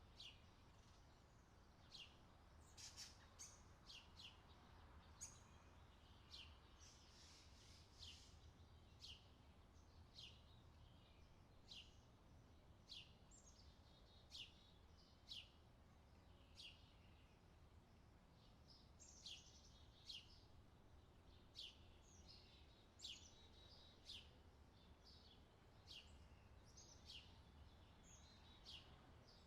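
Faint forest birdsong: a bird repeating short, quick downward-sweeping chirps about once a second, over a low steady hum.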